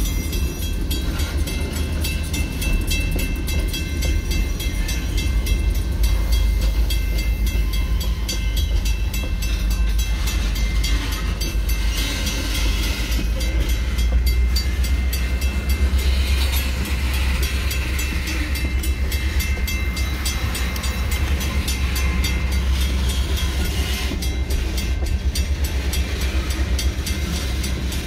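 Freight train of tank cars, hoppers and gondolas rolling across a road crossing: a steady low rumble with wheels clacking over the rails.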